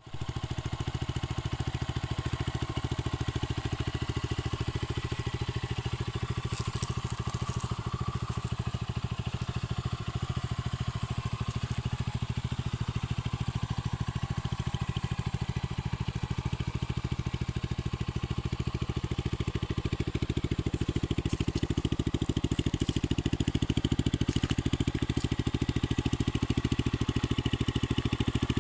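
Archive Outback 125 scrambler motorcycle's 125 cc engine idling steadily with an even pulse, getting a little louder in the last third.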